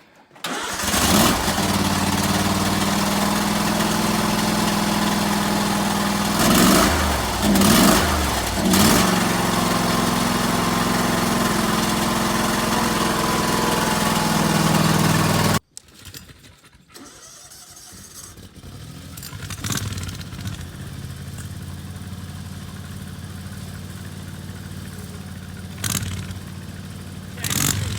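A small gasoline engine catches and runs loudly and steadily, with three short revs in the middle, then stops abruptly. After a moment a quieter engine runs steadily, with two brief revs near the end.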